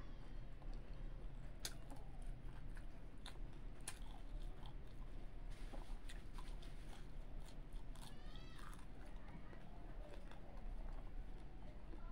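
Close-miked chewing and wet mouth sounds of someone eating rice and fried fish by hand, with scattered sharp clicks and lip smacks. About eight seconds in there is a brief squeaky sound whose pitch bends up and down.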